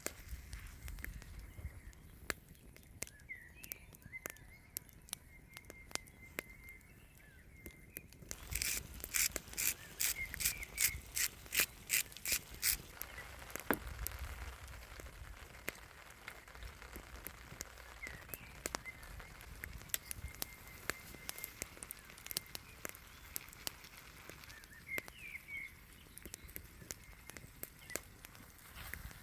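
Campfire crackling, with scattered small pops, under a faint steady high tone that carries a few chirps. About a third of the way in comes a quick run of sharp strokes, about four a second, lasting some four seconds.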